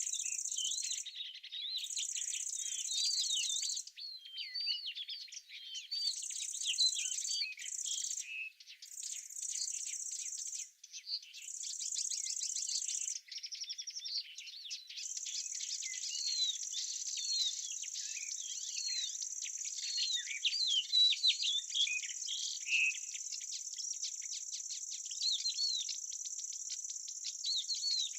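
Small songbirds chirping and twittering, many quick high notes, with an insect's high, even trill that comes in stretches of a second or two at first and then runs without a break from about halfway.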